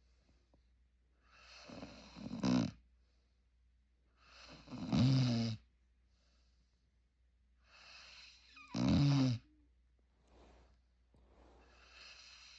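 Labrador–Rottweiler cross puppy snoring: a slow breath about every three seconds, each swelling from a soft airy rush into a short loud snore. The snore comes three times, and a fourth breath is building near the end.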